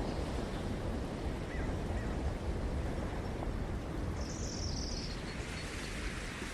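Ocean surf washing steadily on the shore, with a brief high bird chirping about four seconds in.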